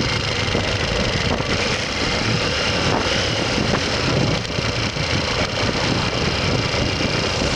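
Motorcycle under way on the road: the engine running steadily under heavy wind and road noise.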